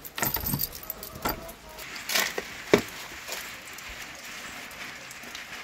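Steady rain falling, with scattered sharp clicks and knocks in the first few seconds.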